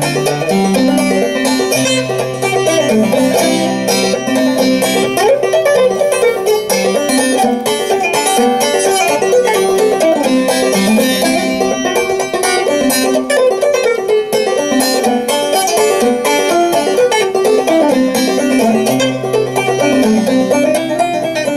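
Clawhammer banjo playing an old-time tune, a steady, unbroken run of picked notes over a recurring low note.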